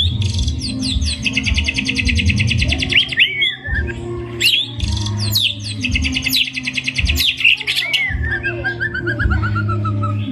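White-rumped shama (murai batu) singing loudly: two long, very rapid trilled phrases studded with whistled glides, then a run of notes falling in pitch near the end.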